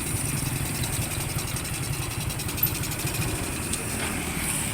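Motorcycle engine running steadily, with a low even rumble and a hiss of road and wind noise.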